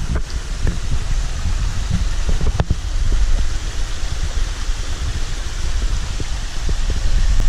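Wind buffeting the microphone, a gusty rumble over a steady rushing hiss, with a few sharp clicks of handling; it cuts off abruptly at the end.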